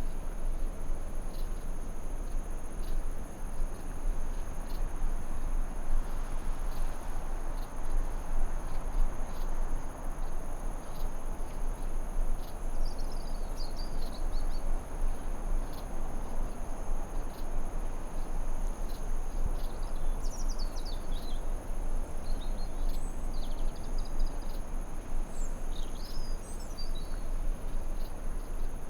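Forest ambience over a steady hiss of white noise: a continuous high insect drone, like crickets, with faint ticks. Short bird chirps and twitters come in around the middle and several times in the second half.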